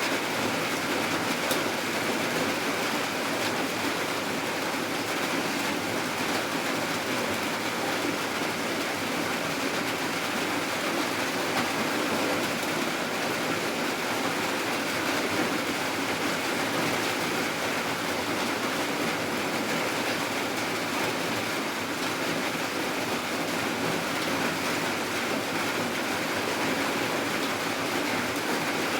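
Steady rainfall, an even hiss with no breaks or changes in strength.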